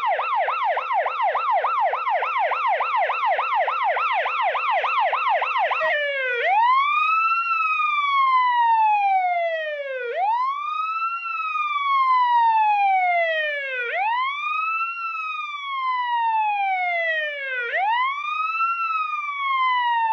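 Electronic emergency-vehicle siren sounding a fast yelp, then switching about six seconds in to a slow wail, each cycle rising quickly and falling slowly over about four seconds.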